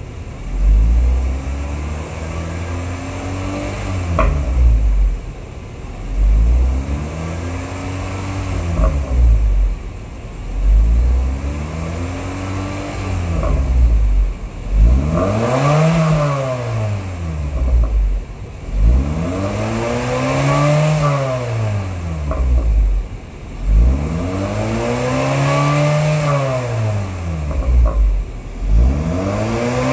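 2011 Honda Fit 1.5-litre naturally aspirated four-cylinder, heard through an aftermarket header with metal catalytic converter and a low-volume oval single-outlet muffler, being revved in repeated blips. The engine rises and falls again about every two to two and a half seconds, and the later revs climb higher and louder.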